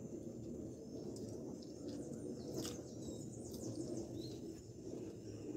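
Eating sounds: chewing with a few short, sharp mouth clicks and smacks through the middle, over a steady low background hum.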